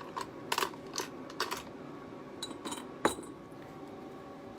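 Small hard objects being handled on a work table: a string of light clicks and clinks, with a sharper knock about three seconds in.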